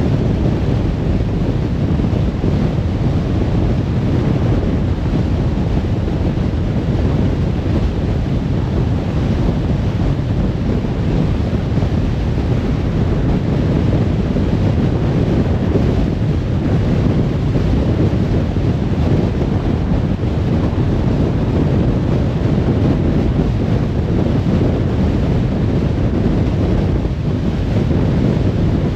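Steady road noise of a car cruising on a motorway: an even, deep rumble of tyres and wind that holds the same throughout.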